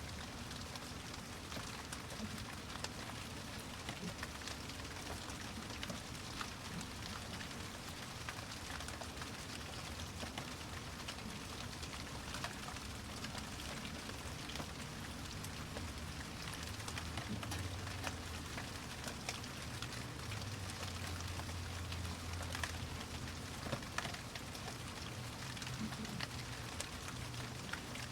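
Steady rain falling, with scattered individual drops ticking on a surface and a low rumble underneath that swells for a few seconds past the middle.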